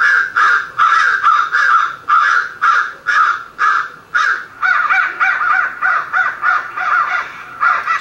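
A bird's harsh calls repeated in a steady series, about three a second. About halfway through, the calls come quicker and rougher, with a lower note added.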